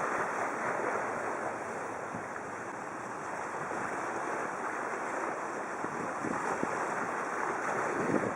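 Steady rushing noise of wind on the microphone, with waves washing on the shore.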